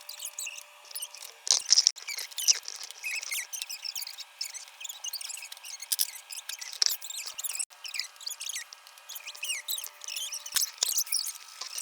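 Felt-tip markers squeaking and scratching on paper in many short, quick strokes as children draw.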